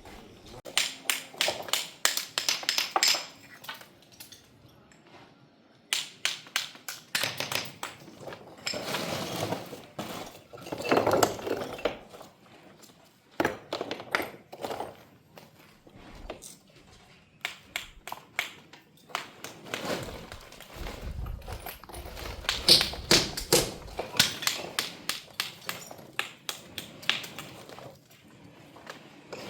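Stone cladding work: hard taps and knocks on stone come in quick clusters of several strikes, with a stretch of rougher scraping noise about ten seconds in.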